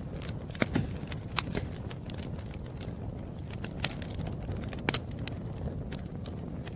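Campfire burning: a steady low rumble of the flames with irregular sharp crackles and pops of burning wood.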